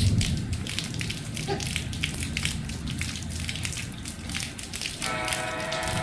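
Rain dripping and pattering irregularly on a platform shelter. About five seconds in, a steady tone with several pitches joins it.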